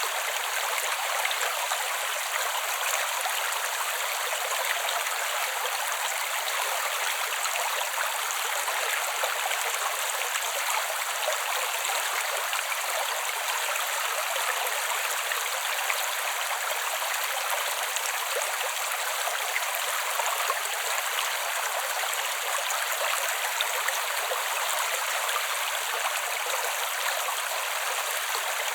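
Creek water running and babbling steadily, a continuous bright rush with no low rumble.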